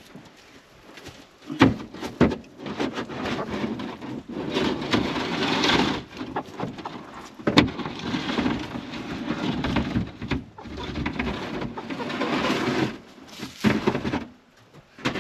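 Rough scraping and rustling in several long stretches, broken by a few sharp knocks, as debris is cleared out of a chicken coop.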